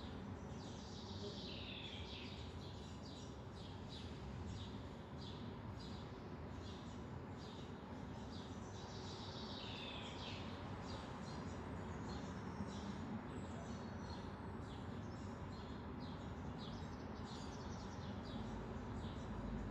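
Small birds chirping: many short high chirps with two longer falling trills, one about a second in and another about nine seconds in, over a steady low background rumble.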